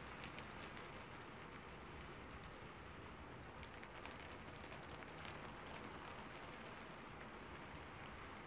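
Rain-on-rooftop ambience track: a faint, steady rain hiss with scattered ticks of single drops.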